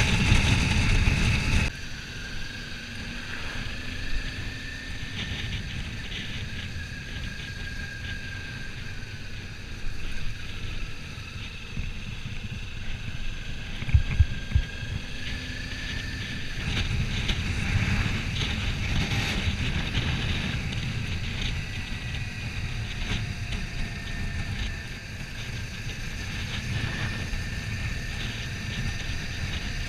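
Motorcycle riding at speed: steady wind rushing over the camera microphone, with a faint engine note that rises and falls underneath. The level drops suddenly about two seconds in, and a couple of short knocks come midway.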